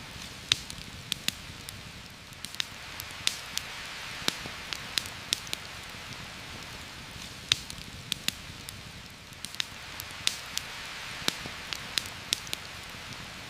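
Steady heavy rain hissing, with sharp, irregular crackles and pops from a campfire, about two a second.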